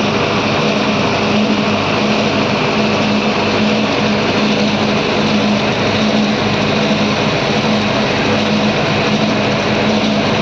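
Diesel engine running steadily at a constant speed, a steady hum with no change in pitch or level.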